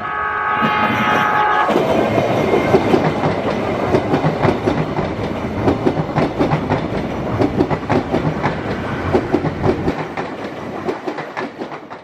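A train horn sounds for about the first second and a half, then a KRL Commuter Line electric train passes close by, its wheels clattering rhythmically over the rail joints. The clatter thins out near the end.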